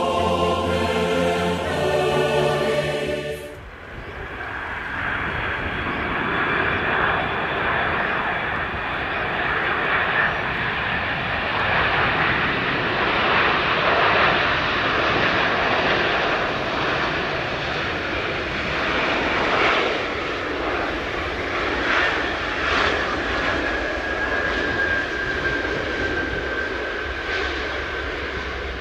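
Choir music for about the first three seconds, then a sudden cut to the six turbofan engines of an Antonov An-225 Mriya: a steady jet rumble and hiss, with a faint whine that slowly falls in pitch near the end.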